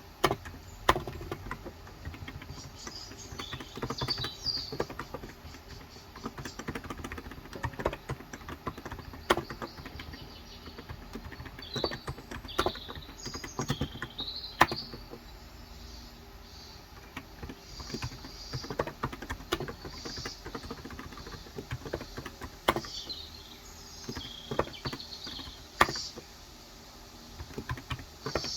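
Typing on a Cox Endeavour electro-capacitive tenkeyless keyboard with 35 g switches: irregular keystrokes in short runs, with pauses between them. Birds chirp in the background in short high clusters several times.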